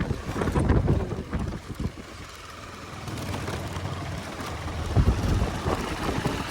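Wind buffeting the microphone, a gusty low rumble that surges about a second in and again near the end.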